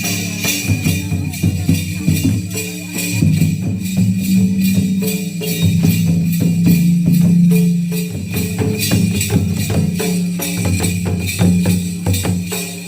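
Ho traditional dance music: fast, steady drumming with jingling percussion, about four beats a second, over low pitched notes, one of them held for several seconds in the middle.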